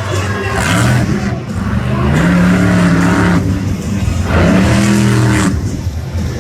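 Monster truck engine revving hard in about three surges, its pitch climbing and falling with each one.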